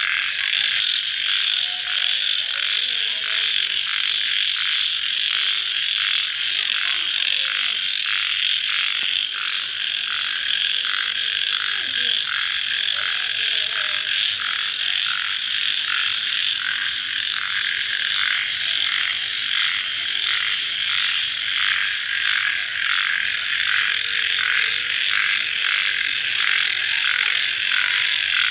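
A dense night chorus of crickets calling, a steady high-pitched trill with an even, fast pulsing.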